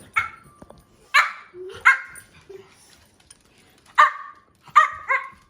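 Dog barking: about six short barks in three bunches, one near the start, two a second later, and three close together near the end.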